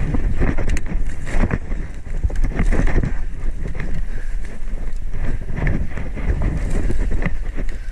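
Irregular knocks and rustling from a moving body-worn camera, with wind rumbling on the microphone.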